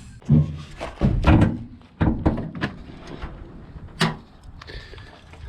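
Hyundai hatchback's bonnet being released and lifted: a handful of thunks and clunks, the loudest about a second and two seconds in, with another sharp knock near four seconds.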